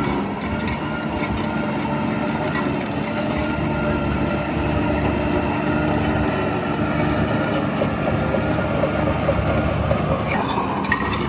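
Heavy earthmoving machine's diesel engine running steadily, with faint scattered metallic clicks over it.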